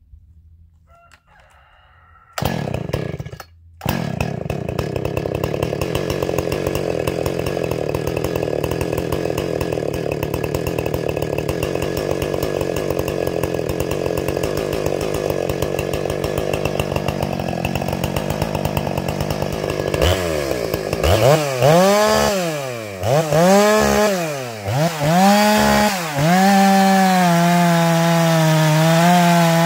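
Ported, muffler-modded Husqvarna 455 Rancher chainsaw engine starting about two seconds in, cutting out briefly and catching again, then running steadily. About twenty seconds in the throttle is blipped several times, rising and falling sharply, and near the end it is held at high revs, with the carburettor set about one whole turn richer than where the tuning started.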